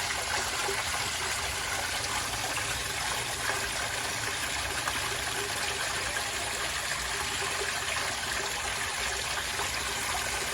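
Steady splashing of water falling and running in a small DIY garden waterfall.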